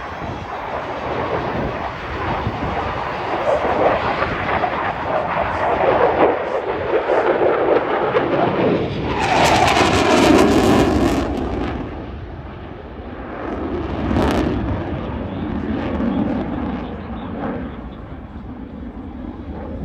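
Jet noise from a Eurofighter Typhoon FGR4's twin EJ200 turbofans flying a display pass. It swells to its loudest about halfway through with a falling whine as the jet goes by, then fades.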